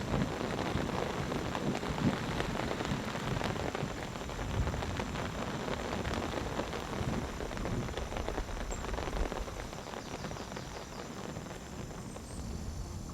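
Heavy rain falling steadily, with many individual drops pattering on surfaces.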